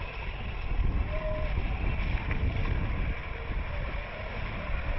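A vehicle on the move: a steady low rumble with wind buffeting the microphone.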